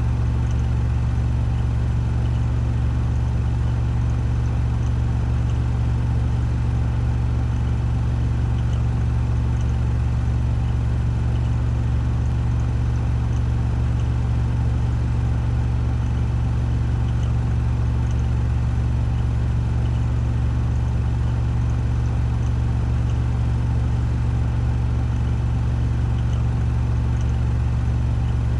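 Washing machine on a 1400 rpm spin cycle, the drum spinning at full speed with a steady, unchanging deep hum.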